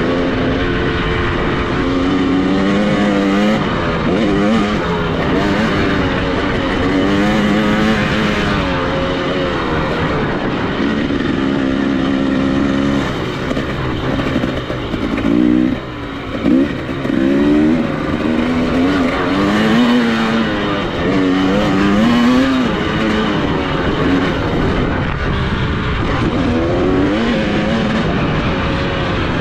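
Dirt bike engine under hard riding, revs climbing and dropping again and again as it shifts gears. About halfway through the revs fall off, then come several quick throttle blips before it pulls steadily again.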